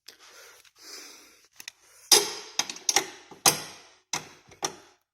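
A series of about eight sharp knocks and clicks, irregularly spaced, after a moment of softer handling noise, as a stuck part is worked loose by hand and tool.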